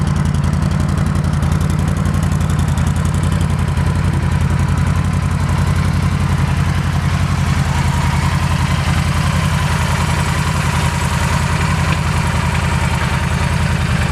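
Yamaha V Star 1300 Tourer's fuel-injected V-twin engine idling steadily through its stock exhaust, pretty quiet.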